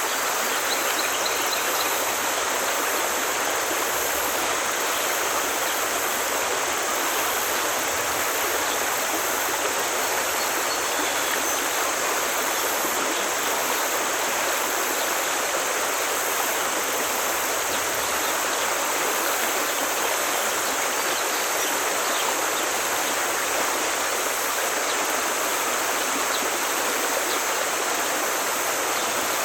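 Forest stream flowing, a steady rush of water without a break.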